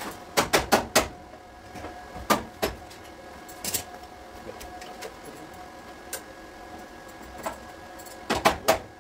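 Sharp hammer knocks on car body metal: a quick group of four, then scattered single strikes, then another quick group of three, over a steady faint workshop hum.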